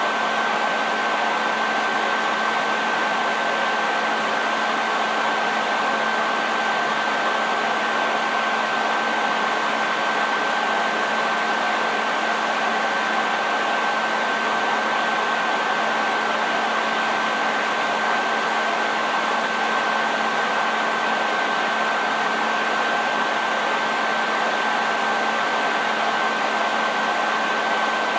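Hair dryer running steadily: a constant blowing rush with a steady whine over it and a low hum.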